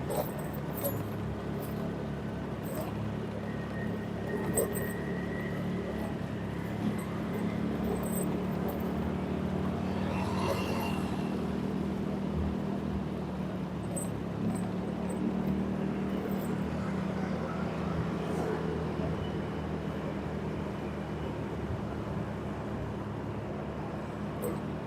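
Vehicle engine running steadily while driving along a road, with traffic noise and a passing swell of sound about ten seconds in.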